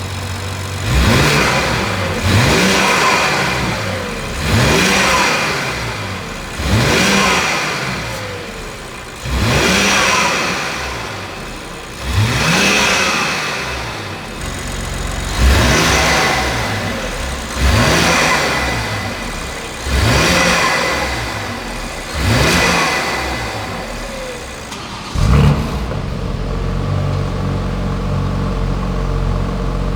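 BMW X4M Competition's twin-turbo inline-six, breathing through an Akrapovic exhaust, being free-revved in eleven sharp throttle blips two to three seconds apart, each dropping back in pitch. After the last blip, about 25 seconds in, it settles to a steady idle.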